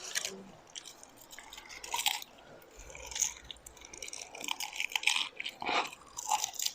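Close-miked eating sounds: wet mouth noises and chewing, with scattered small clicks and smacks.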